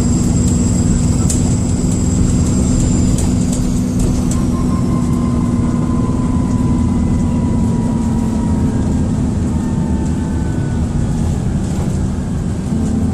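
Dennis Trident II / Enviro400 double-decker bus heard from inside while under way: a steady low engine drone with the turbocharger whistling over it, a high thin whistle that fades after about three seconds, then a lower whistle that slowly falls in pitch.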